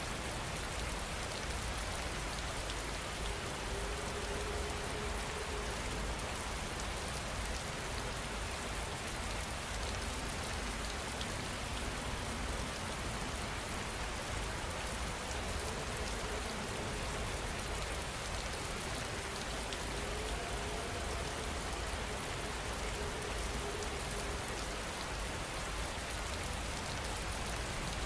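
Steady heavy rain falling, an even, unbroken hiss with no thunder in this stretch.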